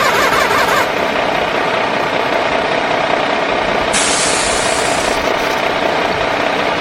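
Vehicle engine running steadily. A hiss joins it about four seconds in and lasts about a second.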